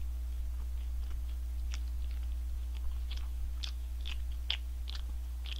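A person chewing a mouthful of a spicy fried chicken-breast burger, with small wet clicks and crunches that come more often in the second half. A steady low electrical hum runs underneath.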